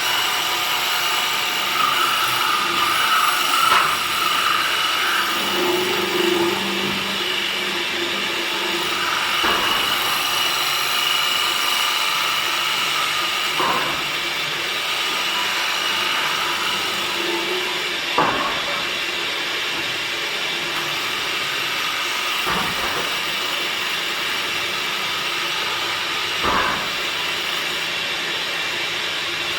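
A woodworking power tool running steadily, with a sharp knock about every four seconds in the second half.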